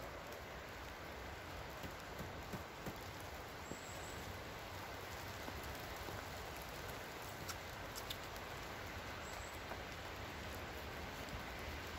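Steady patter of light rain, with a few faint knocks and clicks as someone steps up onto a wooden pole ladder lashed with rope.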